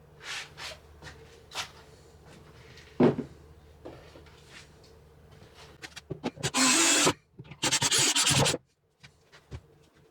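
Cordless power driver driving screws into the wooden cabinet, in two runs of about a second each in the second half. Before them come a few light knocks and one sharp knock as the cabinet is handled against the wall.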